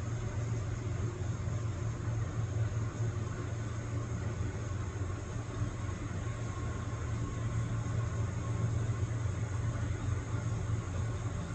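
GE diesel locomotives of a CSX empty coal train approaching, their engines a steady low rumble.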